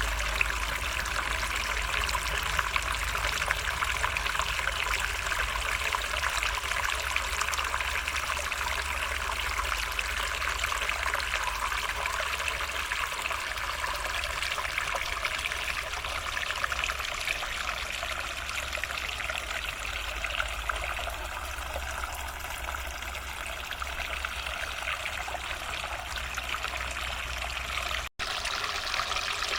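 A narrow forest stream trickling steadily, a constant rushing of water that cuts out for an instant near the end.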